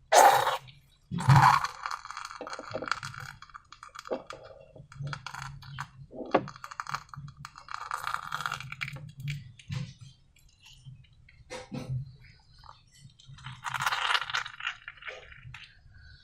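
Slime being squished and worked by hand, full of sharp clicks and crackles, with two loud sharp sounds in the first second and a half and busier bursts of crackling later on.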